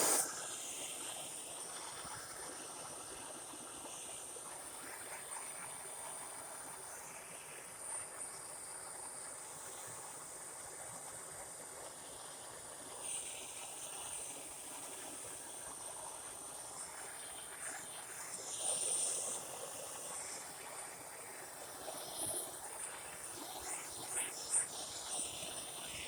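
Bernzomatic MAP-gas hand torch burning with a steady hiss as its flame thaws ice on a backhoe's control panel cover, with small swells and ticks now and then.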